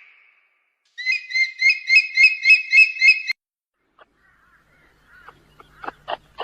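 An animal's rapid series of high, pulsed calls, about three to four a second, for a little over two seconds, then short yips and clicks starting faintly and growing louder near the end.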